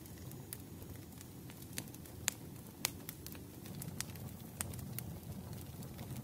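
Wood fire crackling in a fireplace: irregular sharp pops and snaps over a steady low rumble, with two louder pops a little past two seconds in.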